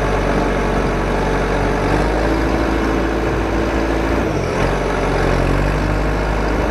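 A large truck engine running steadily at a low, even speed.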